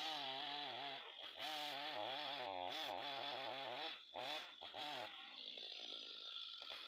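Chainsaw running under load as it cuts a tree, its pitch wavering up and down, with brief drops in sound about a second and a half in and again around four seconds.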